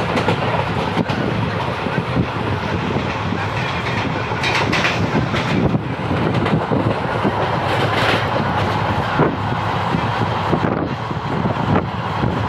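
Indian Railways train running along the track: a steady rumble of the cars with the wheels clattering over rail joints throughout.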